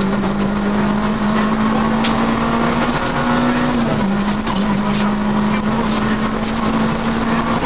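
Peugeot 106 N2 rally car's engine heard from inside the cabin under hard acceleration, its pitch climbing steadily, with a short step down about four seconds in as the driver shifts up a gear before the revs climb again. Road and wind noise run underneath.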